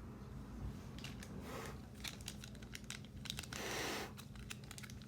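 Crinkling and crackling of a foil trading-card pack wrapper and cards being handled, with many small crackles and two longer swishes, one about a second and a half in and one near the end.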